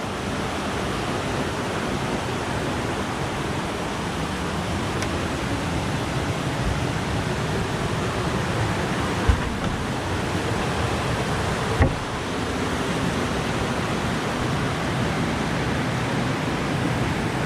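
Steady rush of a rocky mountain stream, an even hiss of flowing water. Two brief thumps come in the middle, about two and a half seconds apart.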